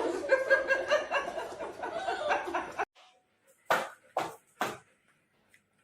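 A person laughing, cutting off about three seconds in, followed by three short, sharp noisy bursts about half a second apart.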